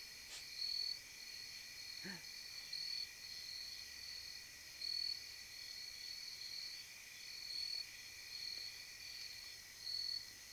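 Crickets chirping steadily in the woods at night, a high pulsed chirp repeating about once a second over a constant insect drone.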